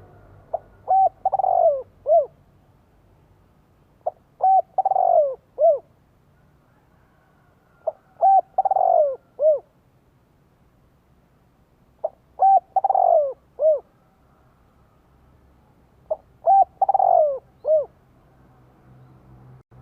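Spotted dove cooing, the male's lure call: five repeated phrases, about one every four seconds, each a few short coos around a longer coo that falls in pitch.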